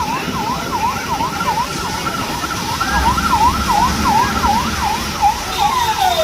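An emergency vehicle's electronic siren in a fast yelp, about three falling-and-rising sweeps a second, changing near the end to slower falling sweeps, over the steady hiss of heavy rain.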